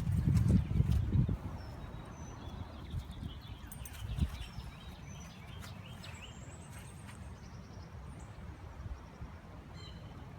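Birds chirping in short, scattered calls over a steady low outdoor background, after a louder low rumble that dies away about a second and a half in.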